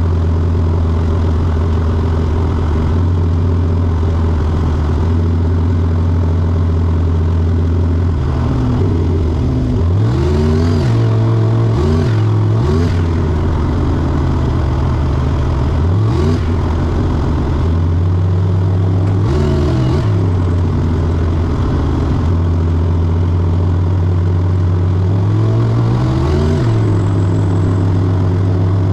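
A car engine idling steadily, with about five quick blips of the throttle where the pitch rises and falls back.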